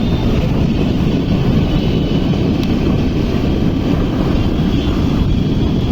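Steady rush of wind buffeting the microphone on a moving scooter, mixed with road and engine noise.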